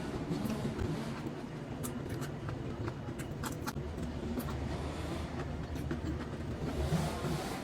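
Steady low rumble of road construction machinery in the background, with scattered small clicks from eating.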